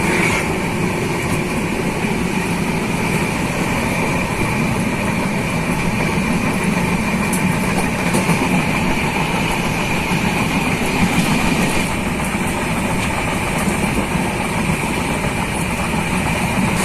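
Moving passenger train running steadily: a continuous rumble with a steady high-pitched tone over it.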